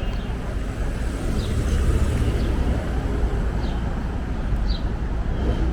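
Steady city street traffic noise with a heavy low rumble, and a few faint short high chirps.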